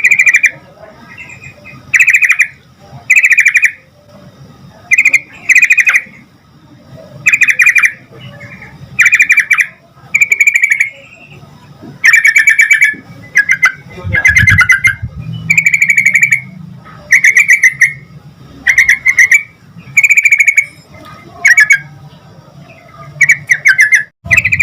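Yellow-vented bulbul singing loudly: short bubbling phrases, each about half a second, repeated every second or two.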